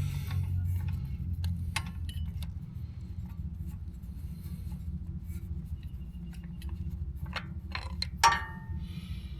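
Scattered small metal clicks and clinks of tools and parts being handled, with one louder ringing clink about eight seconds in, over a steady low hum.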